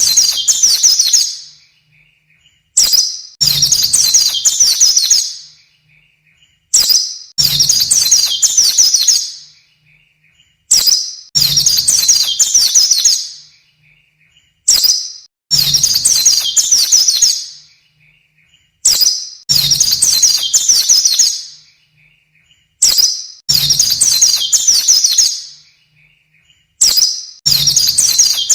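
White-eye (pleci) song: a short high note, then about two seconds of rapid high twittering. The same phrase repeats about every four seconds, a looped tutor recording (masteran) for training caged white-eyes.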